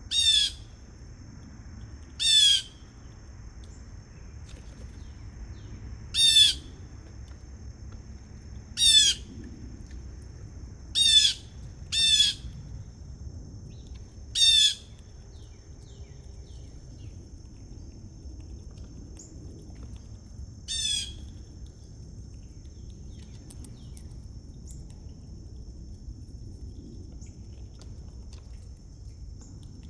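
A bird giving short, harsh calls, eight in all at irregular intervals over the first twenty seconds, the last one fainter. A steady high-pitched insect drone runs underneath.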